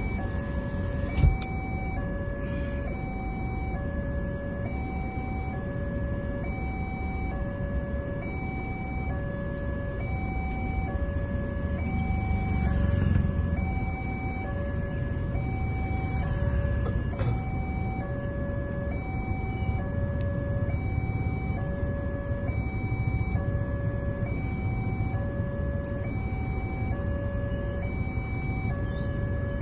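Electronic warning alarm of a railway level crossing sounding its two alternating tones, each held about three-quarters of a second, over and over: the crossing is closed for an approaching train. Beneath it runs the steady low rumble of road vehicles, with a single sharp knock about a second in.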